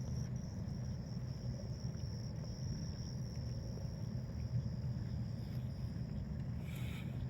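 Insects trilling as one steady high-pitched tone over a constant low rumble, with one short higher chirp near the end.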